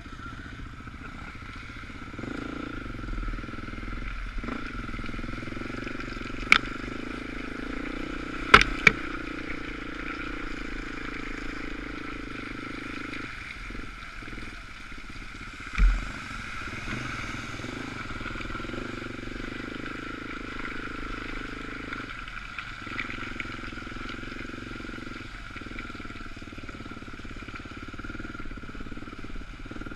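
Dirt bike engine running at a steady speed while riding, with a few sharp knocks and one heavier thump about halfway through.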